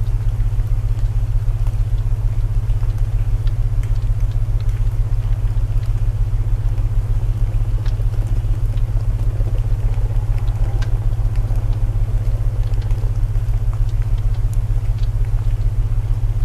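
Layered sleep soundscape: a steady, pulsing low binaural drone over a hiss of rain, with scattered small crackles of burning wood.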